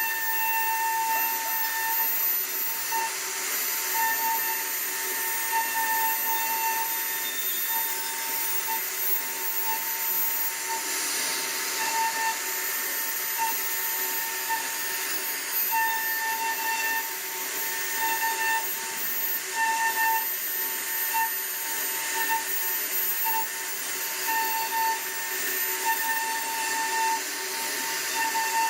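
CNC router's spindle motor running steadily with a high whine that keeps breaking off and returning, over a constant hiss as the bit cuts into wood.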